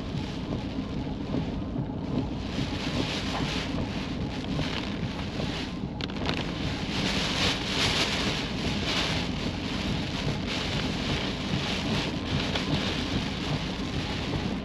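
Heavy rain falling, with a steady low rumble of vehicle engine and road noise underneath; the rain hiss swells for a couple of seconds about halfway through.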